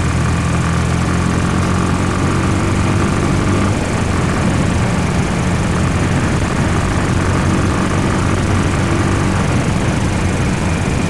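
Honda Twister 250 motorcycle's single-cylinder engine running under way at a steady pitch, with a short change in its note about four seconds in and again near the end.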